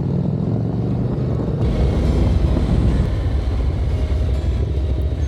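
A motorcycle being ridden: steady low engine rumble under wind noise on the microphone. The wind hiss fills in about a second and a half in.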